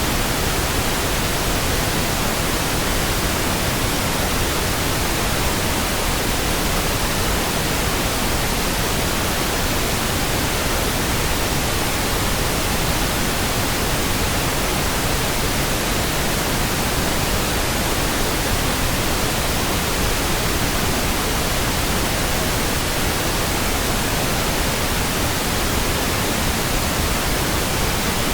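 Steady synthetic pink noise: an even, unchanging hiss spread across low and high pitches alike, with no tones or sudden sounds.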